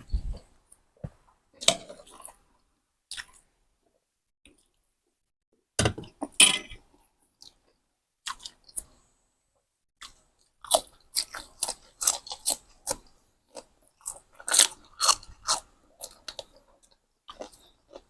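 Close-miked chewing and crunching of crisp food, in irregular bites with pauses and a dense run of crunches in the second half.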